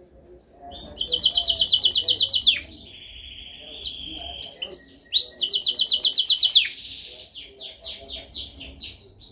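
Domestic canary singing: two fast, bright trills, each about a second and a half long, with a lower rolling trill between them, then a run of separate quick notes near the end.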